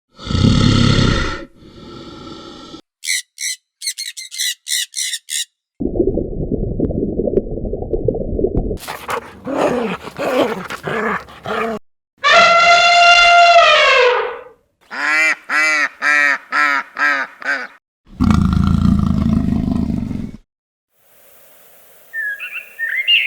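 A string of different animal calls and cries, each cut off abruptly and followed by the next.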